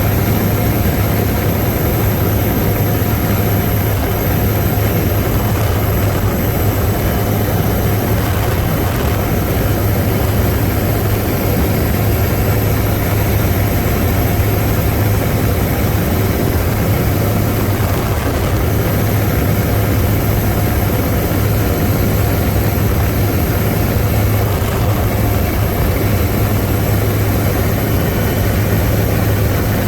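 Helicopter in flight heard from inside the cabin: steady engine and rotor noise with a strong low hum, unchanging throughout.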